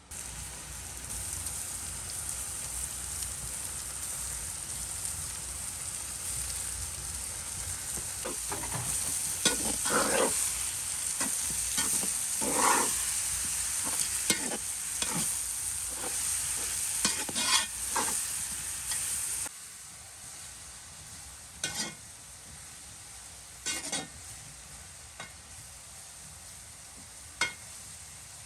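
Food sizzling as it fries in a pan, while a utensil scrapes and knocks against the pan as the food is stirred. About two-thirds of the way through, the sizzle suddenly drops to a much quieter level, and a few scrapes go on.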